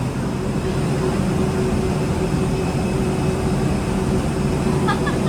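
Steady drone of an airliner on the ground close by: a low hum and a steady tone over an even rush of noise.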